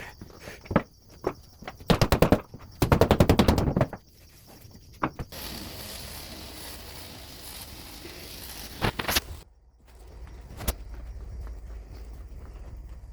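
Impact wrench hammering in two rapid bursts, the second about a second long, followed by a few seconds of steady hiss.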